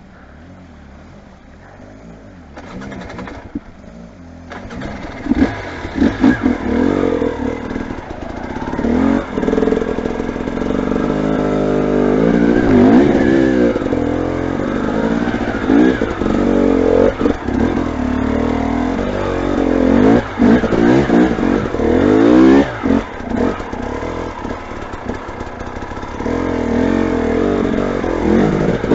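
Motorcycle engine revving, growing louder from a few seconds in as it comes closer, with the pitch rising and falling over and over as the throttle is worked.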